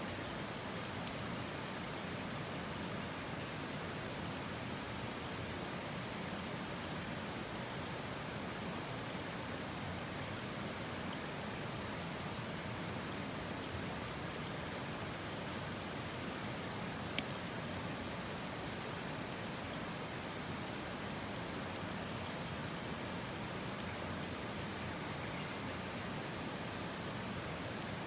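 Steady, even hiss with two faint ticks.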